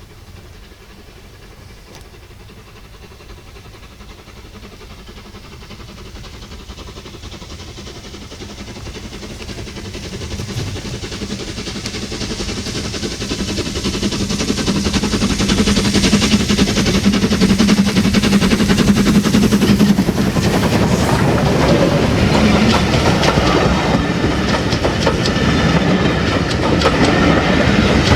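Steam-hauled train approaching, growing steadily louder over about fifteen seconds, then running close by with the loud clatter of its wheels on the rails.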